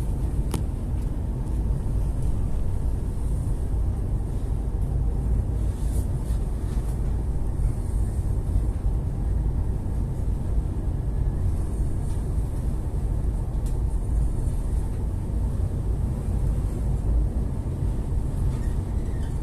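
Steady low rumble of a boat's engine, running without change.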